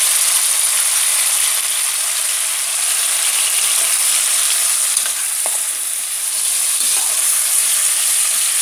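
Boiled sweet potato cubes sizzling steadily in hot soy oil with fried garlic, vinegar just added and boiling off as the oil starts to crisp the potato. A metal spoon knocks lightly against the pan a few times near the middle.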